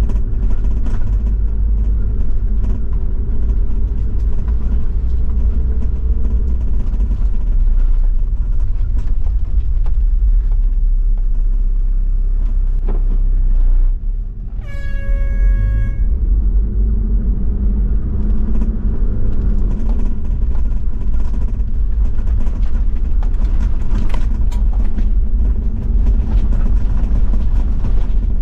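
Diesel Toyota Land Cruiser 70 driving on an unpaved forest road: a steady low rumble of engine and tyres. About halfway through, a car horn sounds once for over a second.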